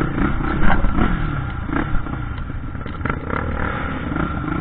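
Off-road motorcycle engine running, with scattered knocks and rattles.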